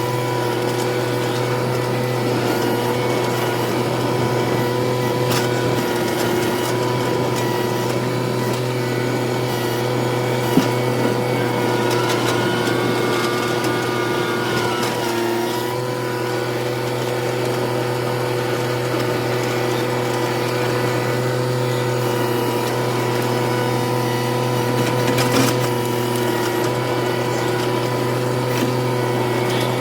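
Tractor engine running steadily at a constant speed, with its pitch sagging briefly about fifteen seconds in as if under extra load.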